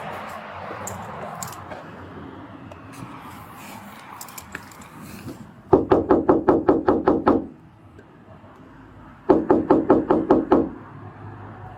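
Rapid knocking on a door, in two quick bursts of about a second and a half each, with a third beginning at the very end.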